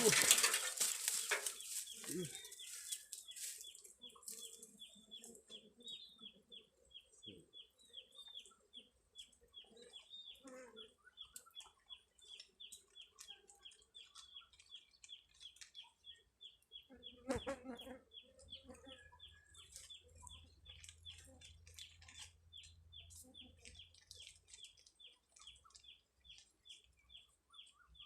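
A bird's high, short downward peeps repeated steadily at about two or three a second. A loud rustling at the start dies away within the first few seconds, and there is a brief louder rustle about seventeen seconds in.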